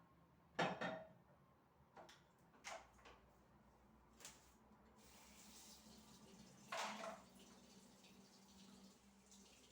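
Faint household handling sounds: a few short knocks and clatters, the loudest about half a second in and another near seven seconds. A faint hiss like running water comes in about halfway.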